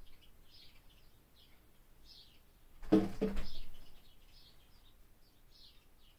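Birds chirping in short high phrases, a couple each second, with one louder muffled bump lasting about half a second near the middle.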